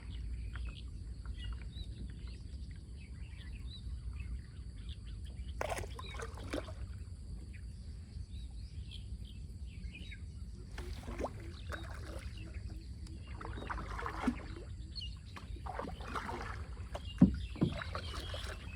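Small boat on a river: water splashing and occasional knocks around the hull over a steady low rumble, with birds chirping faintly.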